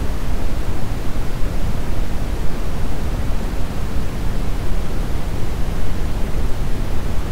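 Brown noise: a steady, even rushing hiss weighted toward the low end.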